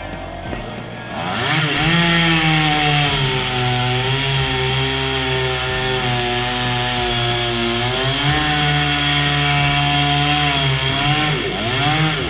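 Petrol chainsaw revved up to full speed about a second in and held there, its pitch sagging for a few seconds in the middle and recovering as it cuts wood. It drops back briefly near the end and then revs again.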